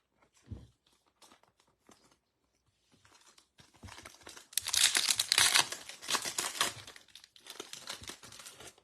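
Foil baseball card pack wrapper being torn open and crinkled. It starts about three and a half seconds in after a few faint clicks, is loudest for a couple of seconds midway, and trails off into lighter crinkling.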